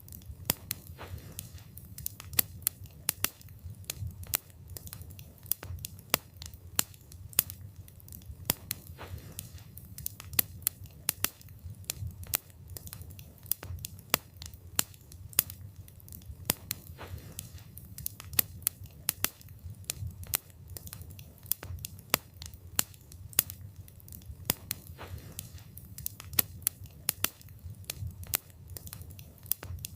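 Campfire burning, with frequent irregular sharp crackles and pops from the wood over a low steady rumble of the flames.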